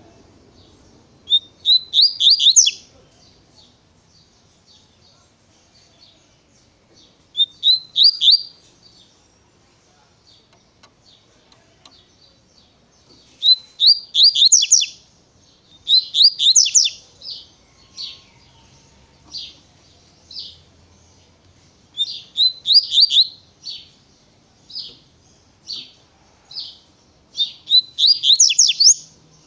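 Double-collared seedeater (coleiro) singing the wild 'tui-tui' song type. Six rapid phrases of high, quickly falling notes come every few seconds, with single notes scattered between them.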